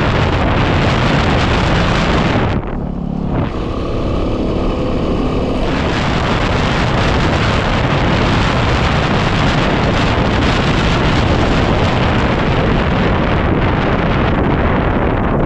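Heavy wind noise buffeting the microphone on a moving Yamaha WR250R motorcycle, with the bike's single-cylinder engine running beneath it. About three seconds in the wind briefly eases and the engine note comes through, then the wind noise builds back up.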